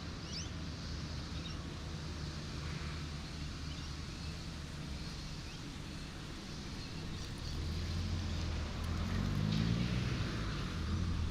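Road traffic noise: a steady wash with a low engine hum, and a vehicle that grows louder and rises in pitch about eight seconds in as it passes. A few short high chirps come near the start.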